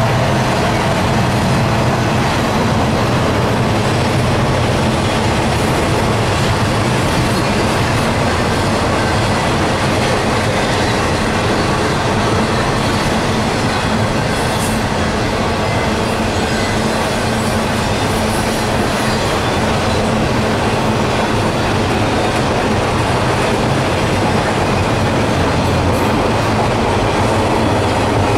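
Freight train cars (double-stack container well cars and covered hoppers) rolling past at speed: a loud, steady rumble of steel wheels running on the rails.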